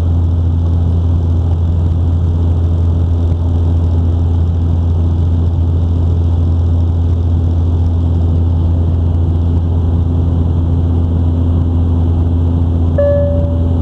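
Steady cabin drone of a De Havilland Dash 8 Q400 turboprop airliner in flight, a deep hum with a steady tone above it. Near the end a cabin chime sounds once.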